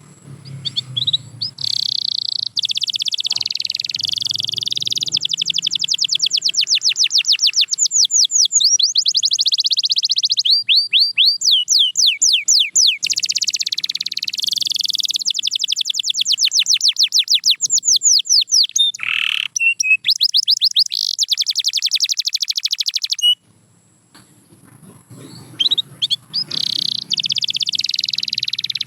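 Domestic canary singing a long song of fast trills and runs of repeated sweeping notes. It breaks off for about two seconds near the end, then starts again.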